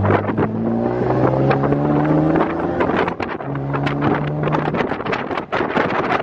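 BMW's engine accelerating hard, its pitch rising through the revs, dipping at a gear change about three seconds in, then rising again before easing off near the end. Wind buffets and crackles on the microphone throughout.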